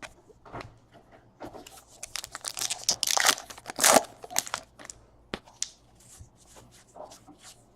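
A baseball card pack's wrapper tearing and crinkling as it is opened, with cards clicking and sliding against each other; the handling is busiest around the middle.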